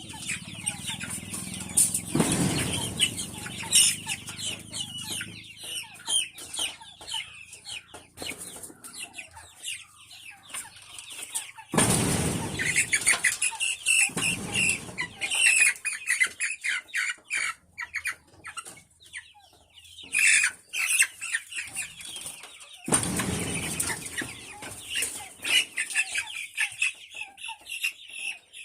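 Chickens clucking and squawking, with three loud bursts of wing flapping as birds struggle, about two, twelve and twenty-three seconds in.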